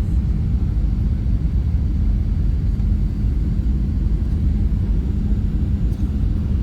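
Cabin noise inside a Boeing 737-800 in flight: a steady low rumble of airflow and the CFM56 engines, with a faint steady hum.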